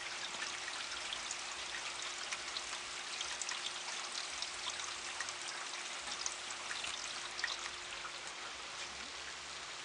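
Steady rain falling, with scattered close drips ticking through it.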